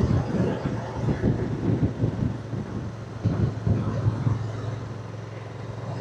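Motorcycle being ridden at a steady pace: the engine runs with an even low hum, under rough wind noise.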